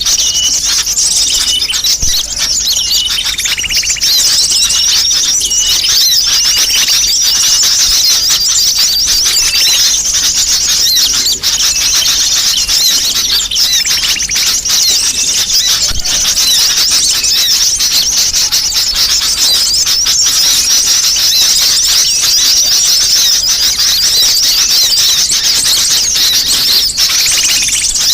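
Many small birds chattering and twittering without a break, a dense high-pitched flock noise used as a bird-lure call for sunbirds.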